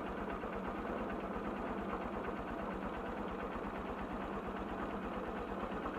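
Honda TMX Supremo 150's single-cylinder four-stroke engine idling steadily. Its carburetor is freshly cleaned and no longer overflowing.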